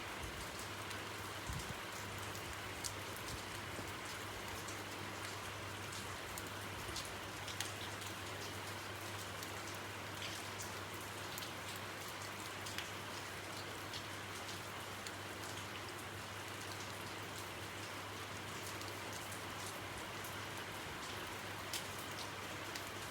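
Steady hiss of falling precipitation, with scattered small ticks of drops or pellets striking surfaces.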